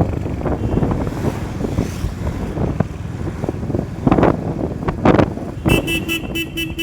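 Steady road and engine noise on a moving motorcycle, with two brief louder rushes of noise in the middle. Near the end a vehicle horn sounds in a rapid stutter of beeps, about seven a second.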